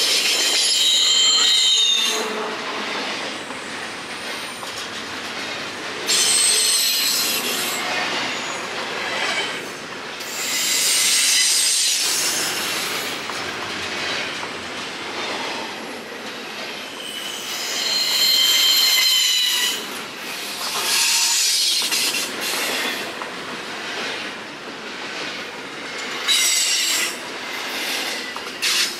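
Railcars of a passing train rolling by, their wheels squealing in repeated high-pitched bursts every few seconds over steady rolling noise.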